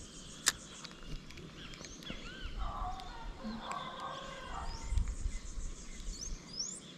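Birds calling in the background with short rising and falling chirps, over a low outdoor rumble; one sharp click about half a second in.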